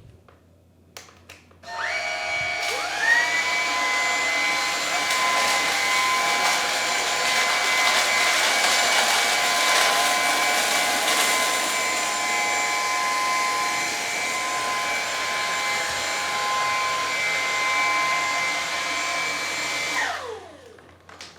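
Lupe Pure cordless stick vacuum switched on at its default power setting, its motor whine rising quickly to a steady pitch. It runs with the brush bar and roller spinning as it vacuums spilled cereal, oats and tea off a hard floor, then is switched off near the end, the whine falling away.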